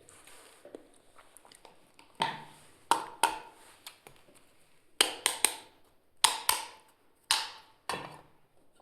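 Pieces of a toy kitchen set knocking and clacking together as they are handled: about ten sharp knocks in small clusters, starting about two seconds in, each ringing briefly.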